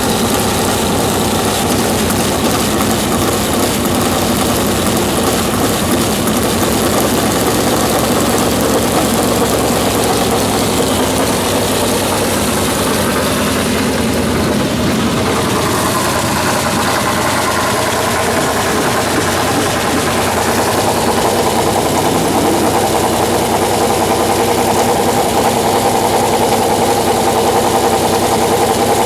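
Race car engines running steadily, the pitch drifting a little up and down around the middle.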